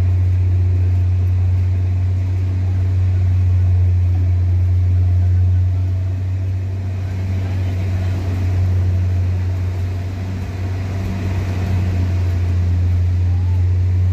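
Belarus tractor's diesel engine running steadily with a heavy, unbroken low drone.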